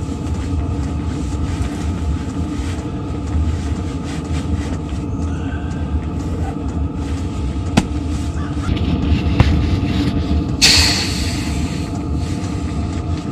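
A steady low mechanical rumble and hum, with two sharp clicks about eight and nine and a half seconds in and a brief rustling hiss near eleven seconds.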